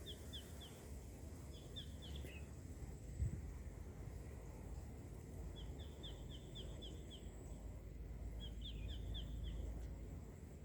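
A small bird calling in four runs of quick, high chirps, a few notes to each run, over a low steady rumble. A single thump comes about three seconds in.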